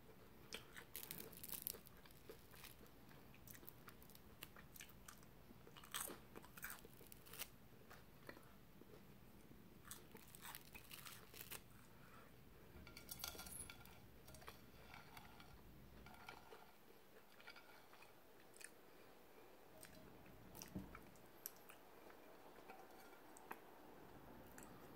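Faint chewing with scattered crunches, a mouthful of toast crust being eaten close to the microphone.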